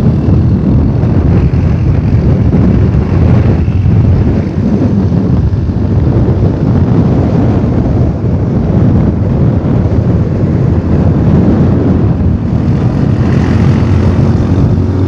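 Loud, steady low rumble of strong storm wind buffeting the microphone, mixed with a vehicle engine running underneath.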